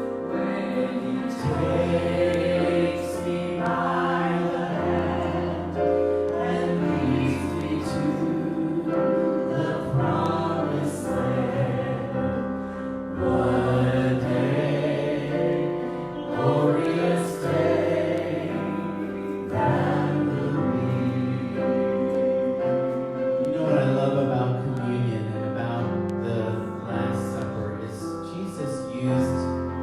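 Worship music: a choir or group of voices singing a slow song with sustained chords and instrumental accompaniment.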